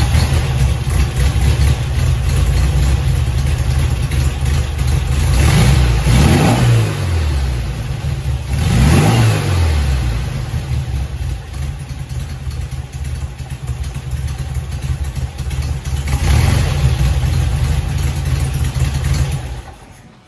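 1966 VW Beetle's air-cooled 1680cc flat-four with dual carburettors running just after a cold start, having sat for a few weeks. The revs rise and fall twice, about five and nine seconds in, and the engine stops near the end.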